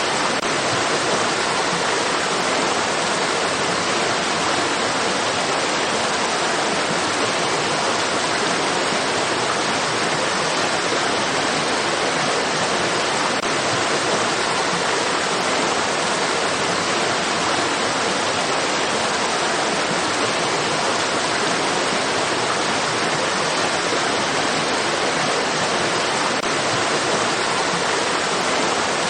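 Running water: a steady, even rush with no pauses or changes.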